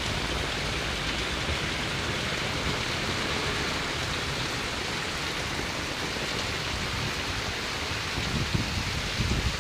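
Steady rain falling, an even hiss throughout, with a few low thumps in the last second or so.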